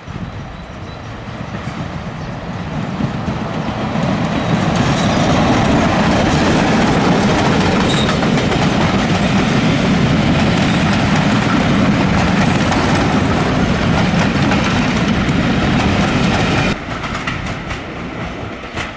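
A train passing close by, building up over the first few seconds, then running loud and steady before the sound drops off sharply about seventeen seconds in.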